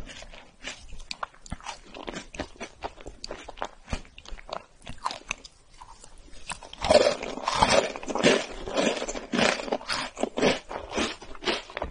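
Close-miked mouth sounds of eating chocolate cake coated in chocolate shavings: moist chewing with small crisp crackles. About seven seconds in, a fresh bite brings a few seconds of louder, denser crunching.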